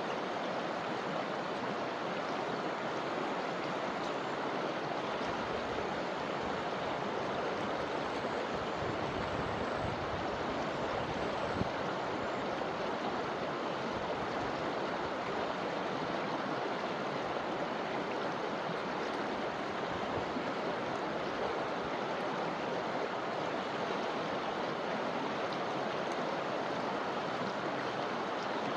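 Forest river flowing steadily, water rushing and splashing over rocks in an even, continuous wash.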